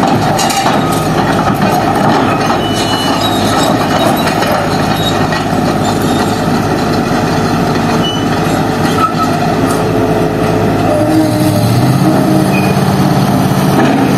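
Heavy road-works machinery breaking up a road surface: a loud, continuous mechanical clatter and grinding with scattered knocks. A steadier diesel engine note grows stronger about three-quarters of the way through.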